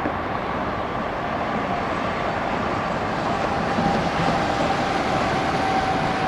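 Jet airliner engines running at the airport: a steady rumble with a thin, steady whine over it.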